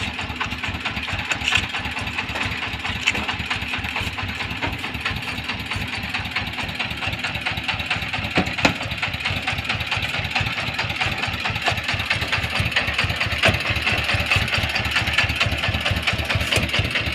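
Truck engine running steadily at idle, with a rapid, even low pulse.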